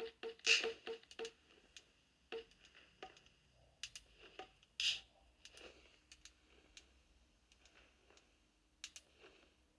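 Sharp clicks from lighting a fireplace: a quick run of about five clicks a second for the first second or so, then scattered single cracks and clicks.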